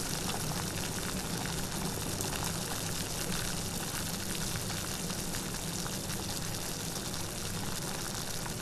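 Steady heavy rain, a dense even hiss with faint patter of drops and a low rumble beneath.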